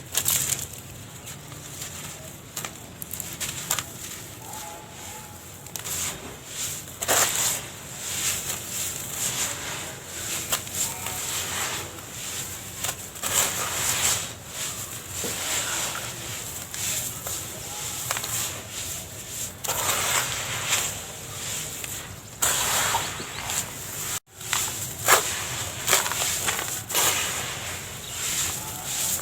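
Dry sand-cement shapes crumbling: a run of irregular crackles and crunches, with a very short drop-out of sound about two-thirds of the way through.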